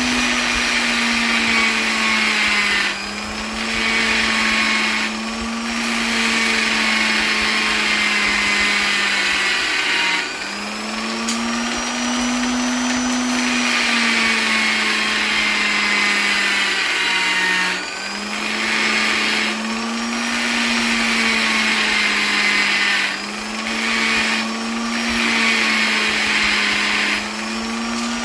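Electric polisher's motor running steadily with a high whine and hiss. Its pitch and loudness dip briefly every few seconds, then recover.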